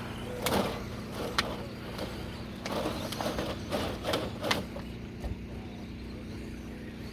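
Radio-controlled 2WD stadium trucks racing on a clay dirt track: a run of short bursts of tyre and motor noise with sharp knocks as trucks pass and land, over a steady low hum.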